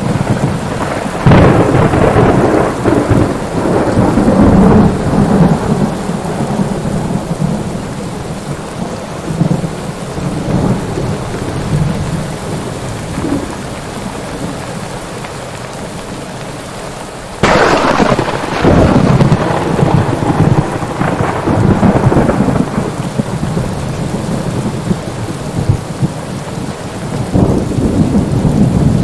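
Thunderstorm: steady rain with rolling thunder rumbling through it. About two-thirds of the way in a sudden close thunderclap cracks and rolls on for several seconds.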